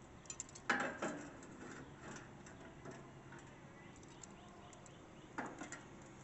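A few light clicks and knocks over a quiet background: a small cluster about a second in and another near the end.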